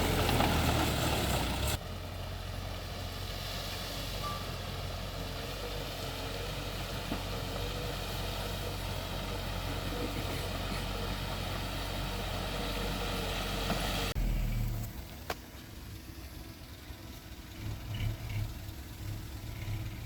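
Heavy diesel engines of earthmoving machines, a bulldozer and dump trucks, running steadily. The sound drops sharply about two seconds in and again near the end. A reversing alarm beeps faintly through the middle.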